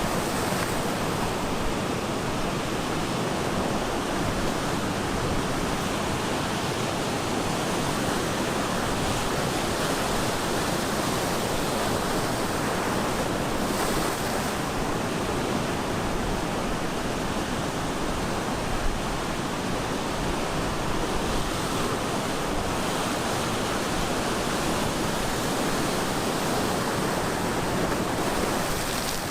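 Ocean surf breaking on the shore: a steady, continuous wash of wave noise.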